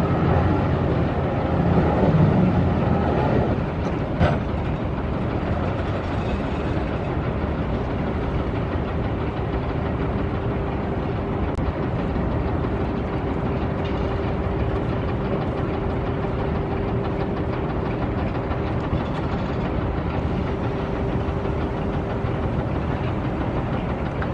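Tugboat's diesel engine running steadily: a low rumble with a constant hum. A louder, more tonal layer sits over it for the first four seconds and drops away after a short knock about four seconds in.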